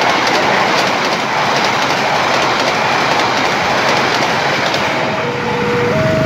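Train passing at speed close by: a loud, steady rush of wheels on rail with faint rail clicks. About five seconds in, a two-note electronic tone starts alternating between a higher and a lower note.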